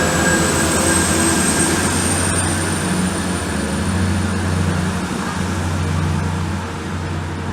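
A train running through the station: a loud, steady low engine hum under a broad rushing noise, with a thin high whine that rises slightly over the first two seconds, easing a little near the end.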